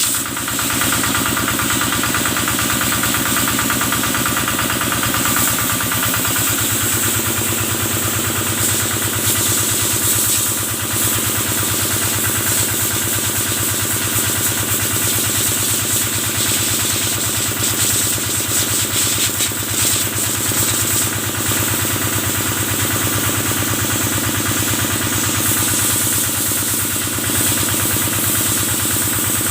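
Kubota diesel engine running steadily, driving the water pump of a cow-washing sprayer; its tone shifts slightly about six to seven seconds in.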